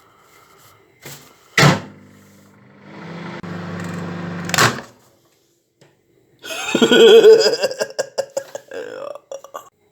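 Microwave oven door clunks shut, then the oven runs with a low steady hum for a couple of seconds and stops with a sharp clunk. After a pause comes a loud, wavering, voice-like sound with no words.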